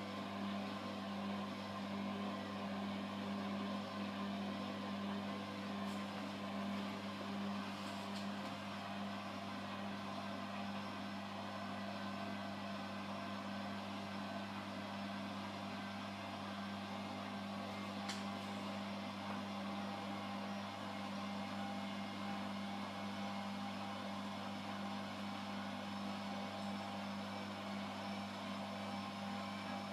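Washing machine running with a steady hum, with a few faint clicks.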